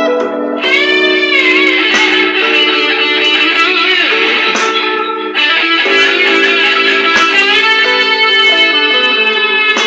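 Electric guitar played through a DigiTech effects unit, a blues in three-four time, with several bent notes that rise and fall in pitch and a new phrase struck about five seconds in.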